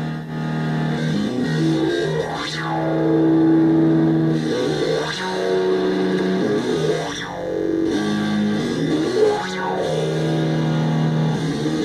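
Modular synthesizer playing a droning patch: sustained low notes that change pitch every couple of seconds, with a resonant sweep that dips down and climbs back up about every two and a half seconds.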